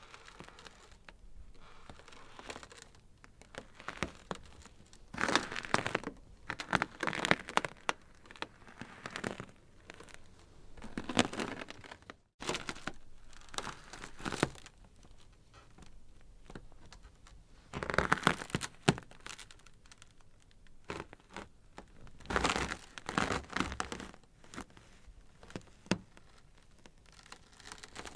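Ice crackling: irregular runs of sharp snaps and crinkling, louder in several bursts and quieter between, with a brief drop to silence about twelve seconds in.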